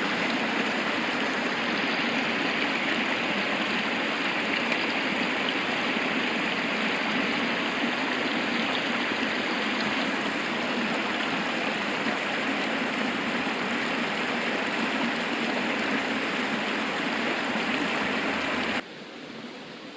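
Steady rushing of a flowing river. It cuts off abruptly near the end, leaving a much quieter hiss.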